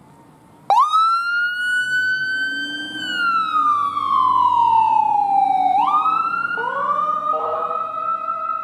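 Emergency vehicle siren switching on suddenly, rising fast to a high pitch, holding, then winding slowly down in a wail. A little before the end it jumps back up and a second, lower tone joins; the tones then hold steady.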